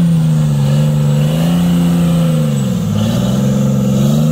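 Off-road 4x4's engine held at high revs under load while the vehicle is stuck in deep mud, the revs dipping briefly a little past halfway and climbing back up.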